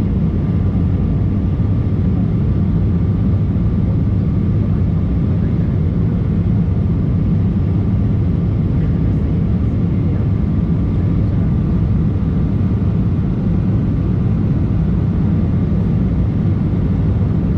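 Embraer E190 airliner heard from inside the cabin during takeoff and climb: its twin GE CF34 turbofan engines and the airflow make a steady, loud, deep noise, with a faint steady whine on top.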